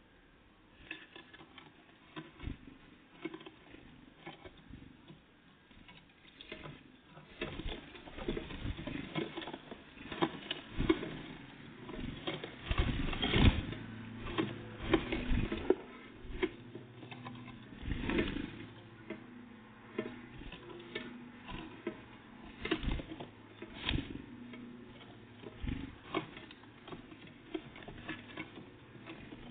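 Irregular tapping, knocking and scrabbling of great tits and blue tits pecking seed and hopping about at a feeder, sparse at first and busier from about seven seconds in.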